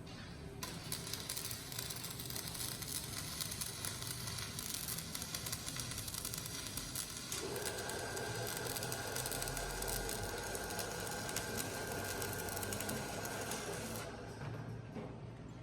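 Electric arc welding on a steel gear: a steady crackling sizzle that strikes up sharply and cuts off near the end, with a faint steady whine joining halfway through.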